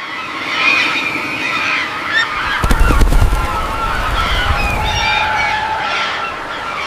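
Many overlapping honking animal calls. A deep rumble comes about three seconds in.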